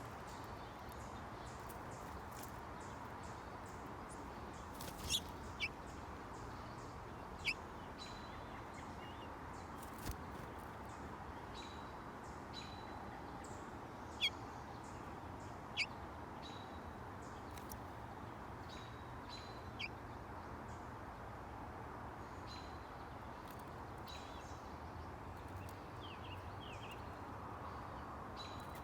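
Songbirds at a feeder giving short, sharp call notes, about seven loud ones scattered through, with fainter high peeps between, over a steady background hiss.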